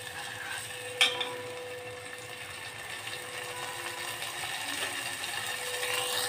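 Chopped tomatoes sizzling in hot oil with tempering spices in an aluminium pot, stirred with a steel spoon; the spoon clinks once against the pot about a second in.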